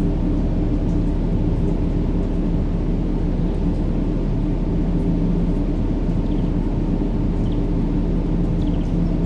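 Steady low rumbling noise from a baby-sleep white-noise track, unchanging in level, with a faint steady hum in it. A few faint high chirps come near the end.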